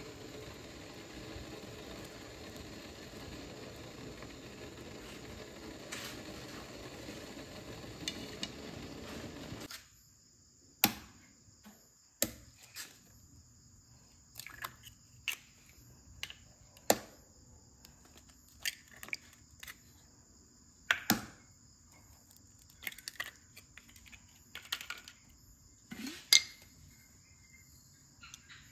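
Food frying in a pan with a steady sizzle, cut off abruptly about ten seconds in. Then come sharp, irregular clicks and knocks of utensils against dishes, over crickets chirping steadily.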